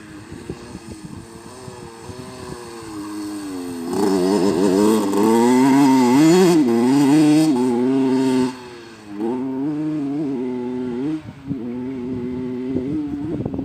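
Motocross bike engine running under changing throttle, its pitch rising and falling as it revs. It gets much louder about four seconds in, then the throttle closes briefly twice before it picks up again.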